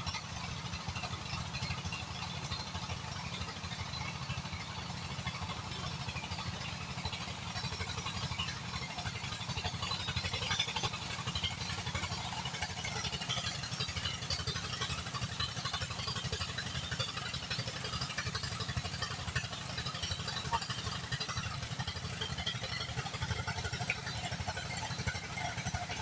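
A small engine running steadily at idle with a fast, even low throb, over a faint background clatter.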